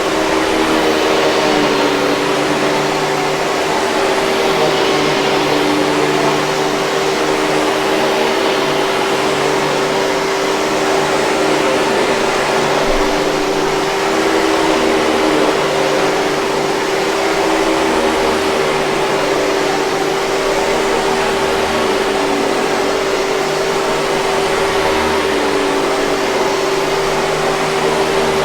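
Hoover 5000 Series canister vacuum cleaner running steadily: an even rushing hum with a constant whine from the motor.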